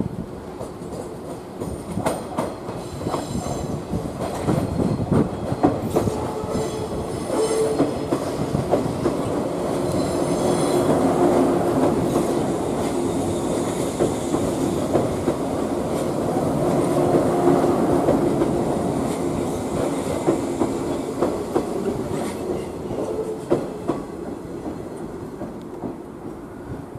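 185 series electric train running in over station pointwork and past close by: wheels clattering over rail joints and switches, with thin squeals from the wheels at times. It builds to its loudest in the middle and fades near the end as the last car goes by.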